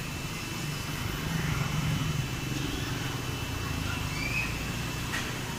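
Low, steady rumble of a motor vehicle's engine running nearby, swelling slightly in the first couple of seconds, with a faint click near the end.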